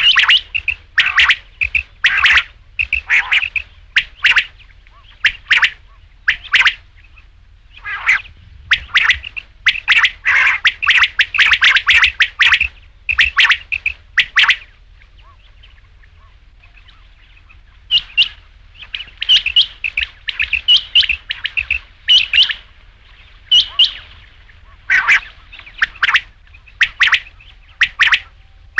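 Quail calling: sharp, quick call notes repeated in rapid clusters, with a pause of about three seconds in the middle.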